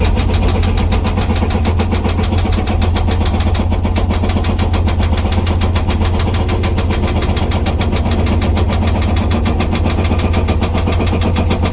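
Hydraulic rock breaker on a Komatsu PC200 excavator hammering hard rock in a rapid, even rhythm of several blows a second, over the steady drone of the excavator's diesel engine.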